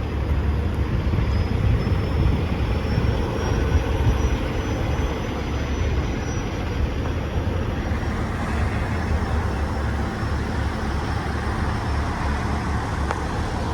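Heavy truck diesel engine running, a steady low rumble with a faint high whine above it.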